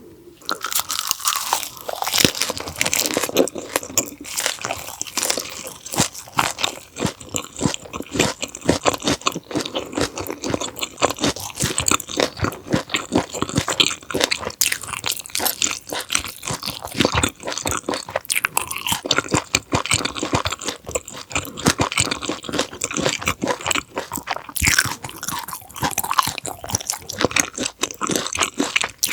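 Close-miked chewing of raw conger eel sashimi wrapped in perilla leaves: crunchy bites and wet chewing, with a continuous, irregular run of crisp clicks and crackles.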